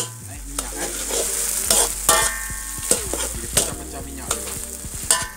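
Blended dried-chili paste with onion and garlic sizzling in hot oil in a metal wok, stirred with a metal ladle that scrapes and taps the pan again and again. The paste is being fried until the oil separates, the first stage of a sambal tumis.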